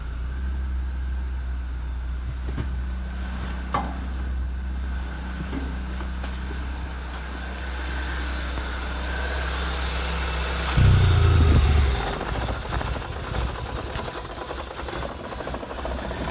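BMW M43B18 1.8-litre four-cylinder engine idling steadily, with a short louder swell of engine sound about eleven seconds in.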